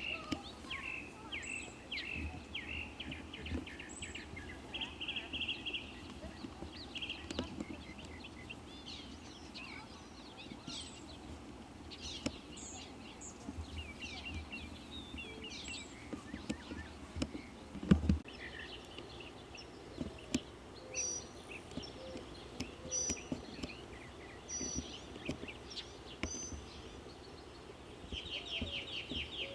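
Birds chirping and calling, with fast buzzy trills about five seconds in and again near the end, over a low steady background rumble. A single sharp knock sounds about eighteen seconds in.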